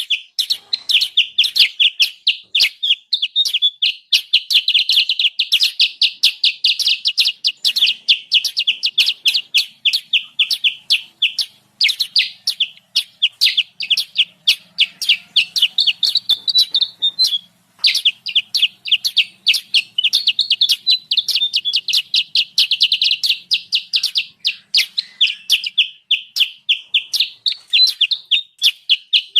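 Kutilang sutra calling in a lure recording: a fast, agitated chatter of short, sharp, high notes, about four or five a second, broken only by a short pause a little past the middle.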